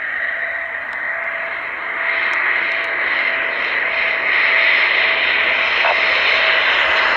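Eurofighter Typhoon jet coming in to land, its rushing jet noise with a steady whine growing louder as it approaches.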